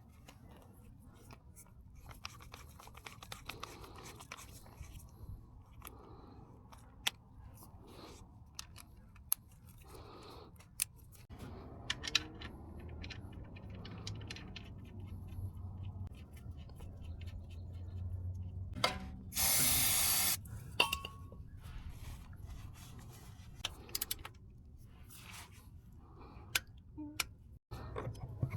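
Scattered clicks, taps, rubbing and scraping from hand work on a car during an oil change, over a low steady hum. About two-thirds of the way through there is a loud hiss lasting about a second, like a short spray.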